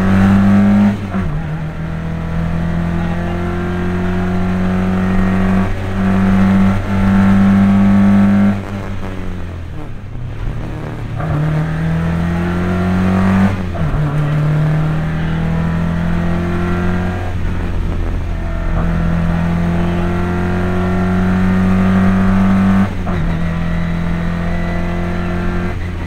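Rally car engine heard from inside the cockpit under hard acceleration. The engine note climbs through the revs and drops sharply at each gear change or lift, several times, with a brief easing off about ten seconds in.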